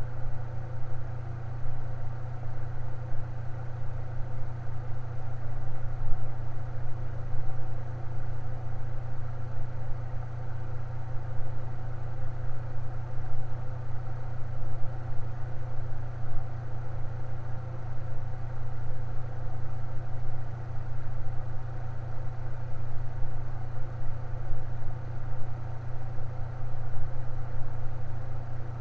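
Electric fan running steadily, a constant low hum with a fainter whir above it.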